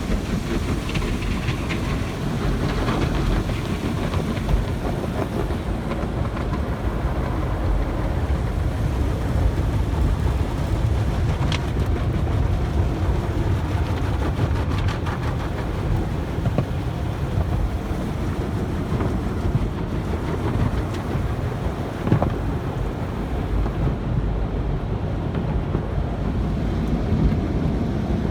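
Automatic car wash machinery running: a steady low rumbling wash of noise heard from inside the car, with a few faint knocks.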